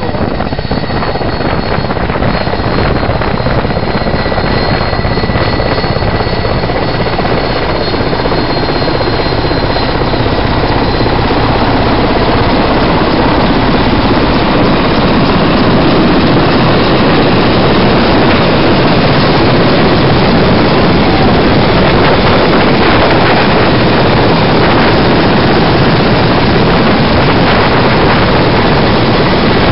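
Helicopter coming in to land in strong wind, its rotor and turbine noise growing louder over the first half and then holding steady and loud. A high whine sounds over it at first and fades out about ten seconds in.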